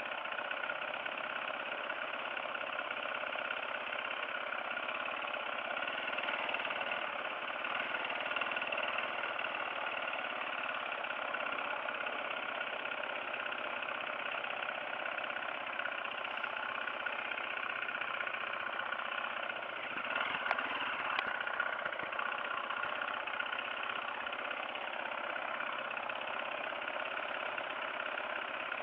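Dirt bike engine running steadily, with a few short knocks about twenty seconds in.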